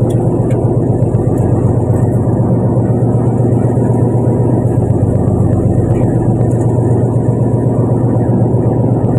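Fishing boat's engine running steadily at constant speed, an even, unbroken drone.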